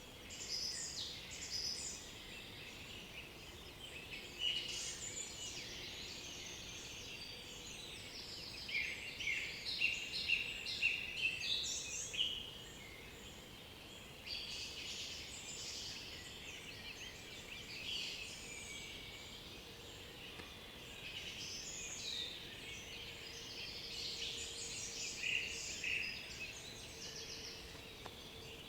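Several songbirds singing at once, a dense overlapping chorus of chirps, trills and song phrases, busiest about a third of the way in.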